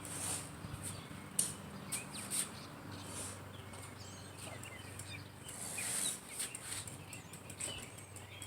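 Birds chirping faintly, short scattered calls, with a few brief hissy bursts of noise.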